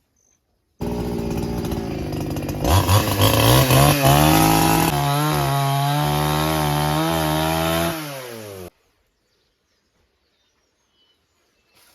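Chainsaw engine starts suddenly, revs up a couple of seconds in and runs fast and steady, then slows and cuts off near the end.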